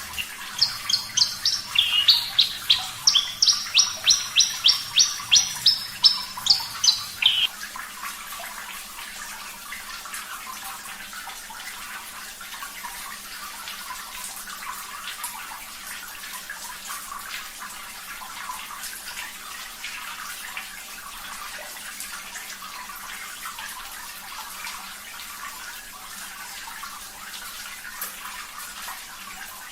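Australasian bush lark (branjangan, Mirafra javanica parva) singing a fast run of sharp, repeated high notes that stops about seven seconds in. Running water continues under the song and alone after it.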